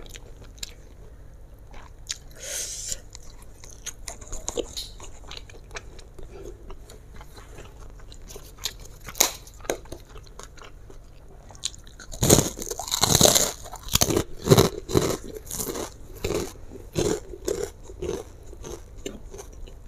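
Close-up chewing of a mouthful of fried flat rice noodles, with wet mouth clicks and smacks. It gets louder and busier about twelve seconds in.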